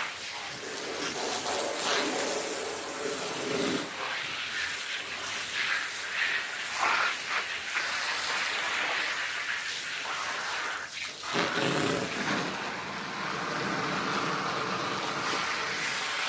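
Wet carpet-washing noise: water spraying and splashing on a carpet, rising and falling irregularly, with short breaks about four and eleven seconds in.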